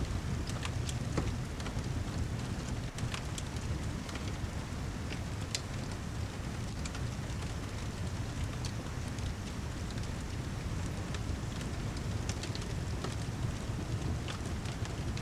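Steady heavy rain with a low rumble underneath, and scattered sharp crackles and pops from a wood fire in a fireplace.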